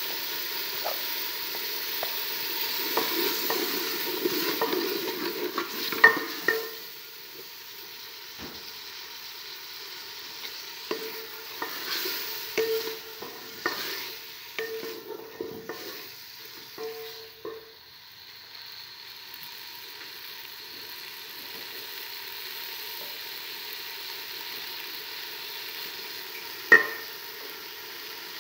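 Green peas frying in oil and onion masala in a metal pot: a steady sizzle with a spatula stirring and scraping against the pot. There are many small clicks of stirring in the first two-thirds, then a quieter, even sizzle, with two sharp knocks, one about six seconds in and one near the end.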